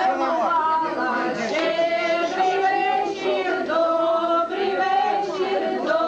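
Several voices singing together, with long held notes that slide from one pitch to the next.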